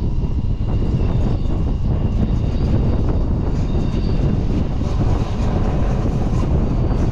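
Train running: a steady low rumble, with a faint high whine in the first few seconds.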